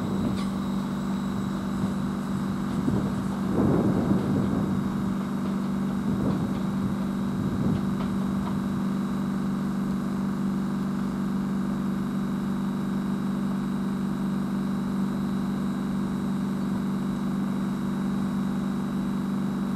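Steady low hum of a train idling at the station platform, with a few faint knocks in the first few seconds.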